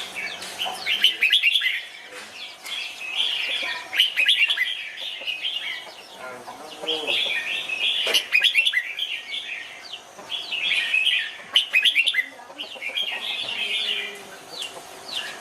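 Red-whiskered bulbul singing: short, quick warbling phrases repeated about every two seconds, with a few sharp clicks between them.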